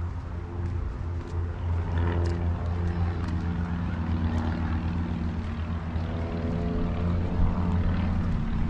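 An engine's steady drone with a pitch that shifts a little partway through, under a heavy low rumble of wind buffeting the microphone.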